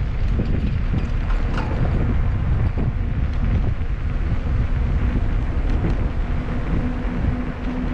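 Wind rumbling on the microphone of a camera riding along on a bicycle, with scattered clicks and rattles from the moving bike. A steady low hum joins about five seconds in.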